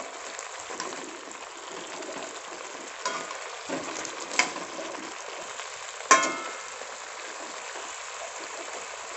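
Chicken leg pieces frying with a steady sizzle in thick masala gravy in a metal kadai while a metal spatula turns them. A few clinks of the spatula striking the pan, the loudest about six seconds in.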